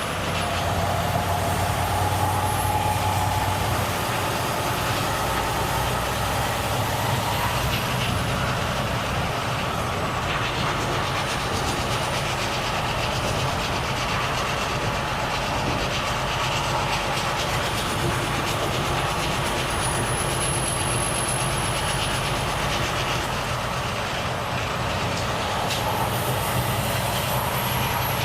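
Volvo FH truck on the move: a steady engine drone with road and tyre rumble that holds level throughout.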